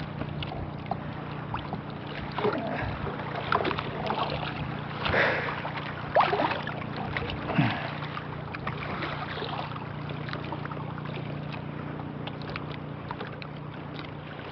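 A small fishing boat rocking at sea in a strong wind: water against the hull and scattered short knocks and creaks of the boat and gear, over a steady low hum.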